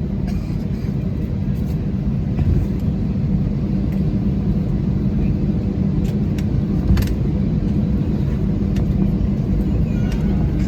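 Airbus A320 cabin noise while taxiing: a steady low rumble of the idling IAE engines and the airframe rolling, with a few short clicks or rattles, the sharpest about seven seconds in.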